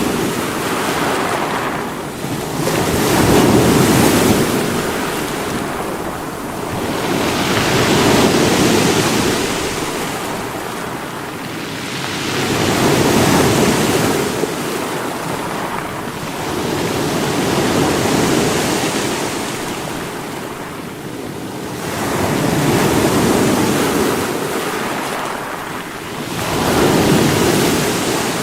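Sea waves breaking on rocks, the surf swelling and falling back in surges about every four to five seconds.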